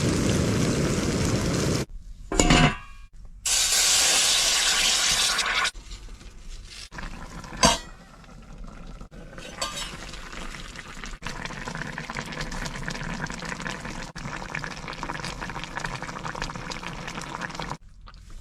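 Cooking in a pan in short cuts: loud rushing pours or hissing, a sharp clack of a utensil, then a steady sizzle with small clinks of a spatula against the pan.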